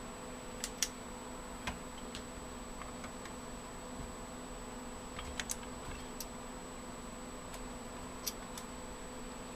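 Scattered light clicks and taps of cables and connectors being handled while wiring up the inside of a desktop PC, irregular and a few at a time, over a steady low hum and a faint high whine.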